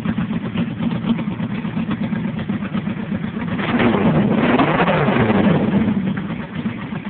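1979 Honda Gold Wing's 1000 cc flat-four engine running through Harley-Davidson exhaust pipes: idling, then revved about halfway through, the pitch rising and falling back to idle.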